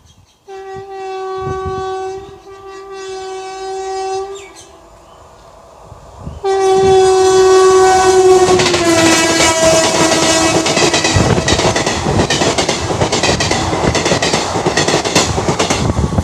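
An Indian Railways locomotive's air horn sounds two blasts as the train approaches, then a long third blast whose pitch drops as the locomotive passes close by. From the third blast on, the train rushes past with the steady clickety-clack of wheels over rail joints.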